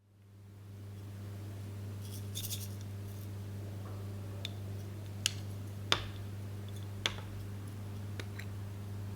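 Slime being handled, with a soft crackle and then a few sharp clicks and snaps spaced about a second apart, over a steady low hum.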